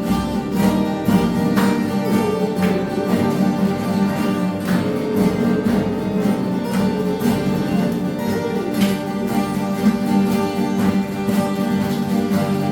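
Acoustic guitars playing a tune together, plucked and strummed, with the notes ringing on.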